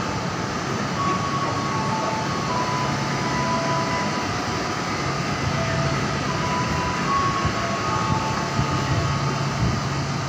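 Train running through a station: a steady noise with a low hum, and faint, short high tones that come and go.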